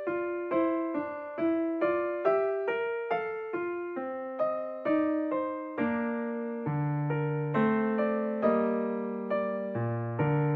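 Background music: a piano-type keyboard playing a gentle melody, with single notes struck about two to three a second, each fading away.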